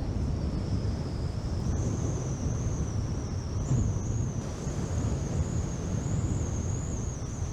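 Strong wind buffeting the microphone, with a thin high whistle that wavers a little in pitch throughout.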